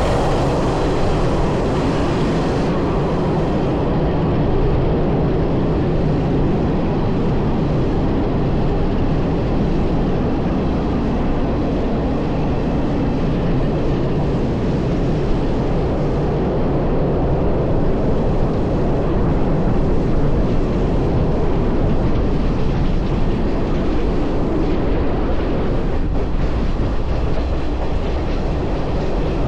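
Train running along the rails: a steady, loud rumble of wheels and cars on the track.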